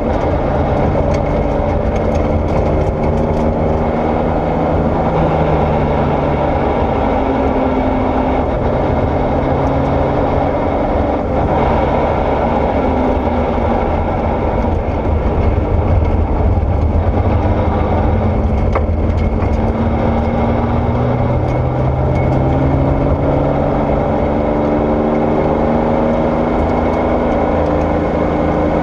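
Porsche 964 rally car's air-cooled flat-six engine being driven hard, its pitch climbing and falling again and again, over a constant din of tyres on gravel.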